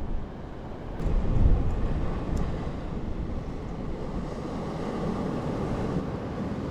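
Wind rumbling on the microphone over the wash of sea waves against rocks, getting louder about a second in.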